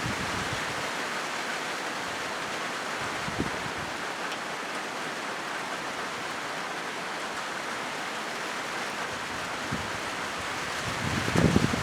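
Steady rain hissing on a corrugated metal roof, an even rushing patter with a few faint ticks. In the last second a louder, deeper rushing swell rises.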